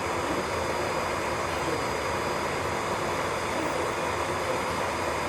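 Electric nail drill (e-file) running steadily: a thin, high, constant whine over an even hiss.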